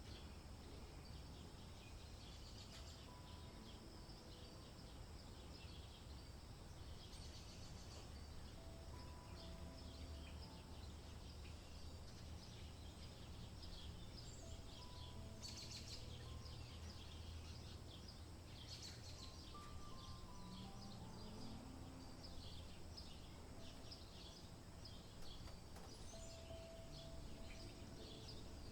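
Faint open-air ambience: a low steady rumble with many small bird chirps scattered throughout, and two brief scratchy sounds near the middle.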